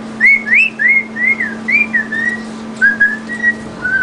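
Whistling: a quick run of about a dozen short, clear whistled notes, the first ones arching up then down, the later ones lower and flatter.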